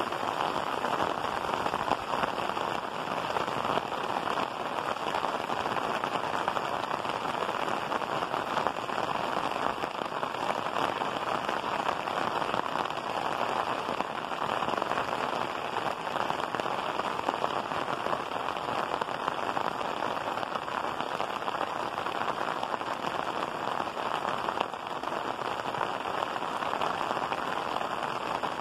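Heavy rain falling steadily: a dense, even hiss of rain with no breaks.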